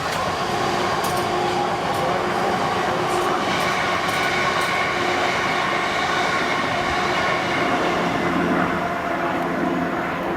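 Bell 206L-3 LongRanger III helicopter in flight: steady rotor and turbine engine noise with several held tones over a rapid low beat.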